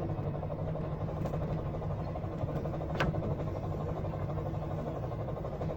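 A motor running steadily with an even hum, with one sharp click about three seconds in.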